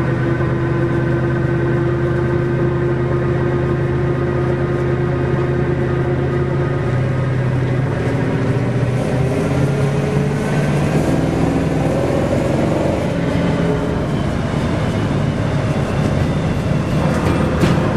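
1965 Ford Mustang engine running while driving, heard from inside the cabin. The engine note holds steady at first, then shifts and rises past the middle as the car picks up speed.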